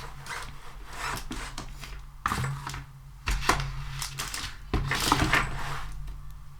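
Hands handling a sticky material up close, in a series of irregular crackling, rustling sticky sounds, the loudest around the middle and again about five seconds in. A faint steady low hum lies underneath.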